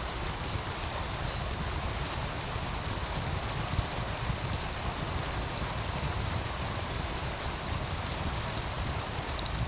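Wood fire crackling with scattered sharp pops over the steady rush of a meltwater stream, with a low rumble underneath.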